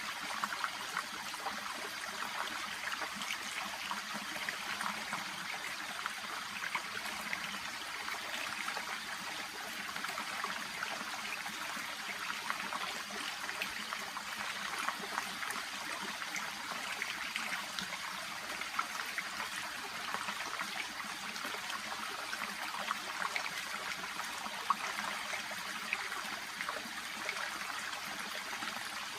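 Shallow brook babbling steadily over stones among water plants, an even trickling and splashing with many small gurgles.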